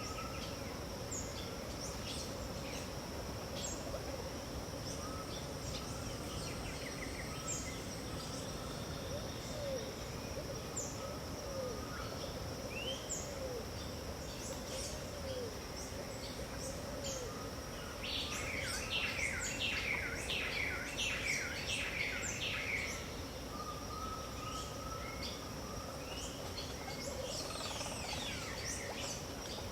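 Dawn chorus of wild birds in the Brazilian Pantanal: many calls from several birds over a steady high insect drone, with a short run of low, arched whistled notes in the middle. About two-thirds of the way in, a louder run of quick repeated notes lasts about five seconds.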